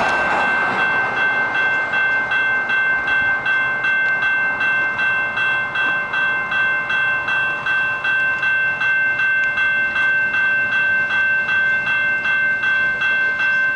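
Railroad grade-crossing bell ringing steadily, about three strokes a second, the warning that a train is approaching or occupying the crossing.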